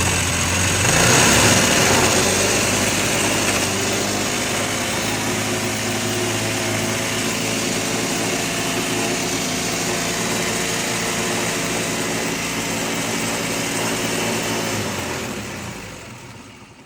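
Small single-cylinder engine running steadily just after starting. About 15 seconds in it is shut off and winds down to a stop.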